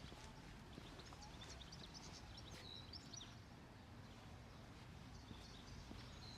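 Faint chirping and twittering of small birds, many short high calls overlapping, over a low steady city hum.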